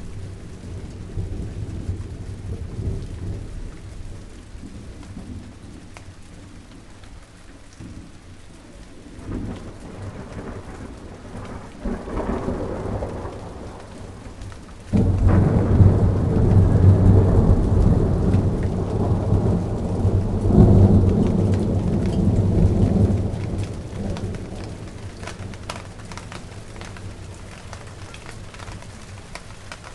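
Steady rain falling, with thunder rumbling through it. About halfway in, a loud roll of thunder starts suddenly, lasts several seconds and then fades back under the rain.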